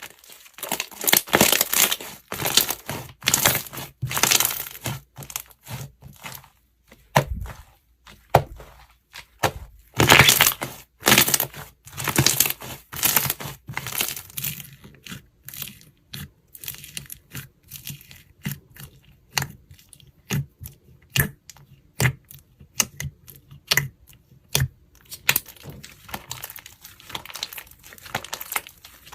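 Slime being squeezed, pressed and stretched by hand, making crackling, popping sounds in irregular bursts, busiest in the first half and sparser later.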